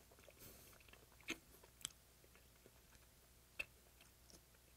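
Very faint chewing of raw yellow stingray sashimi, with a few soft sharp clicks about a second, two seconds and three and a half seconds in.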